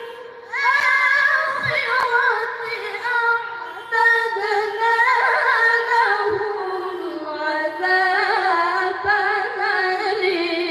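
Melodic Quran recitation (tilawah) by a single voice, in long, ornamented held notes that waver and slide between pitches. There are brief breath pauses just after the start and again near four seconds in.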